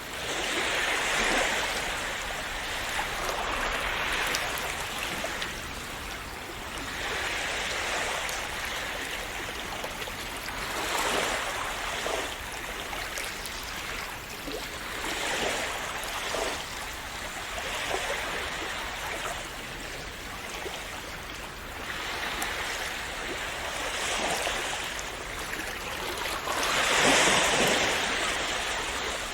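Small sea waves breaking and washing over the shore in a continuous hiss, swelling and falling back every few seconds, with the biggest wash near the end.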